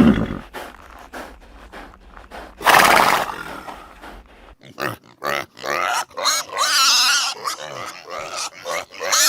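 Farm animals calling: a short, harsh, noisy blast about three seconds in, followed by a series of quavering, bleat-like calls in the second half.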